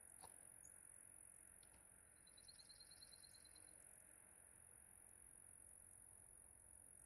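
Near silence: a faint steady high-pitched hiss, with a short, rapid run of about a dozen faint ticks about two seconds in.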